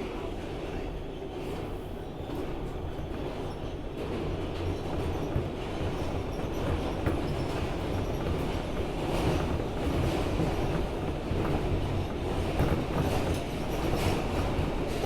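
R160B subway train running through the tunnel, heard from inside the car: a steady low rumble with the wheels clicking over rail joints, getting a little louder as it goes.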